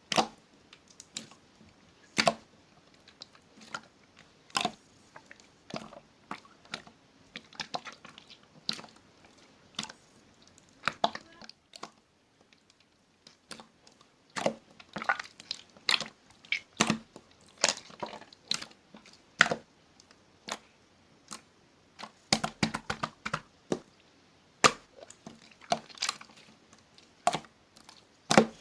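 Slime being squeezed, poked and folded by hand, giving irregular sticky clicks and pops, some single and some in quick runs.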